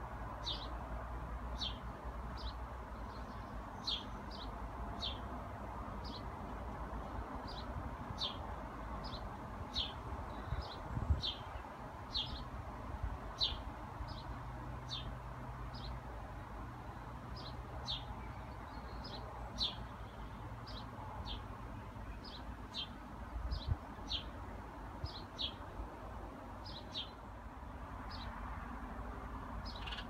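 A small bird chirping: one short, high call after another, steadily about once a second and sometimes two in quick succession.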